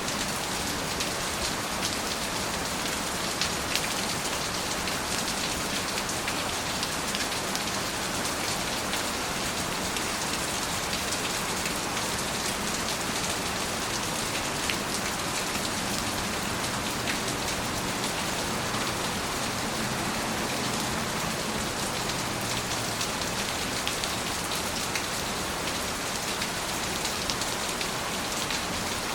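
Steady rain falling, a dense even hiss with many small drop patters.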